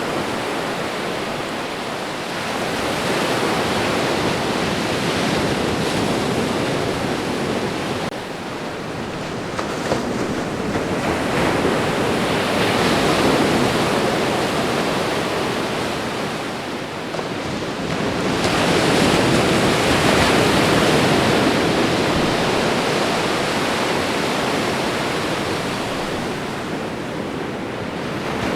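Ocean surf: a steady wash of breaking waves that swells and ebbs every several seconds, with three stronger surges.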